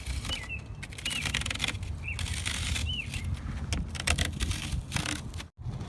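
A small bird chirping, one short arched chirp about every second, over low rumble and scattered handling clicks.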